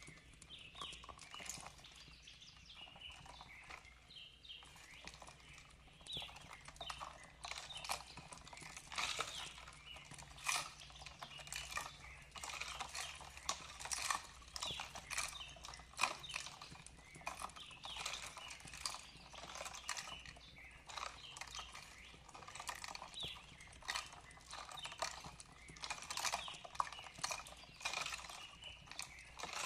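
Wood fire crackling with many irregular sharp pops, with birds chirping softly in the background.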